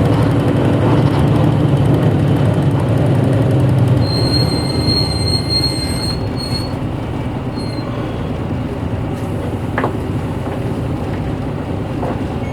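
Interior sound of a 1994 Hino Blue Ribbon city bus, its diesel engine running with a low hum that eases off about four seconds in as the bus slows. A high, steady brake squeal follows for about two and a half seconds, then the engine carries on more quietly.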